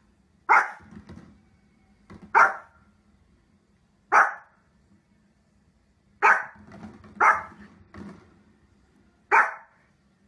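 Pomeranian barking: six sharp, high barks spaced about one to two seconds apart, with quieter low grumbles between some of them.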